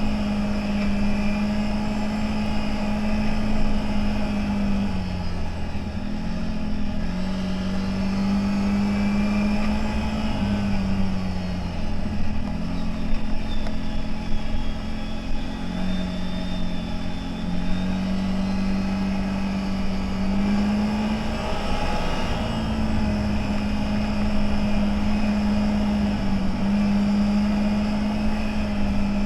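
CFMoto 1000 V-twin engine running under throttle off-road, its pitch holding steady and then dipping and climbing back several times as the throttle is eased and reapplied.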